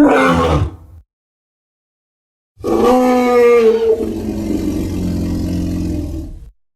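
King Kong monster roar sound effect: the tail of one roar, then after a pause a longer roar of about four seconds that drops in pitch, holds, and cuts off.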